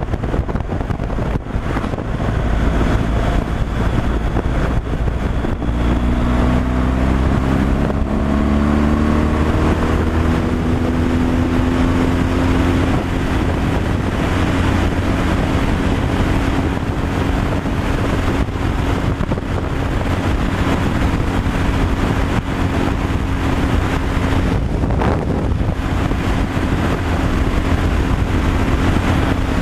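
Truck engine running under way with road and wind noise. From about six seconds in, the engine's pitch climbs as it speeds up, then holds steady for the rest of the time.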